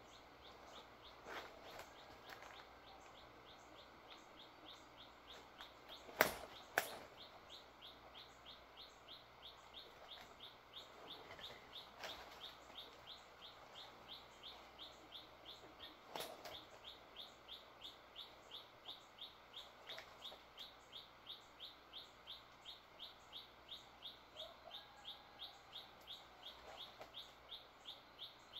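Faint outdoor ambience of short high chirps repeating steadily about twice a second, with two sharp knocks in quick succession about six seconds in and another around sixteen seconds.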